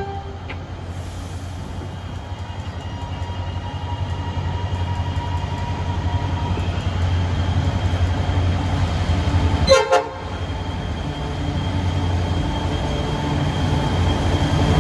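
A train running with a steady low drone that slowly grows louder, with one brief sharp sound about ten seconds in.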